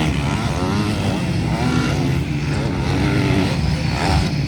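Motocross motorcycle engines running hard during a race, their pitch rising and falling as riders rev and shift.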